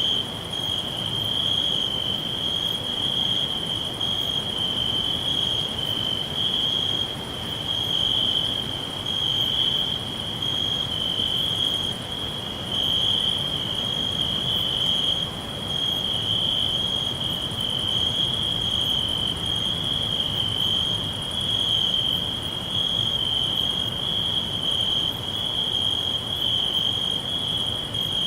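A chorus of crickets trilling steadily at one high pitch, swelling and easing slightly in loudness every second or two. A fainter, higher chirp pulses on and off over it.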